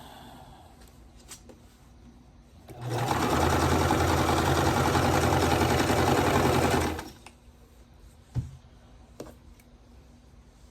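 Sewing machine running at a steady speed for about four seconds, stitching a seam to join quilt block pieces, then stopping. A few faint clicks follow.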